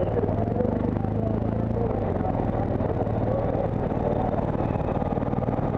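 On-board sound of a motorcycle engine running at low speed in slow traffic: a steady low drone with no sudden events.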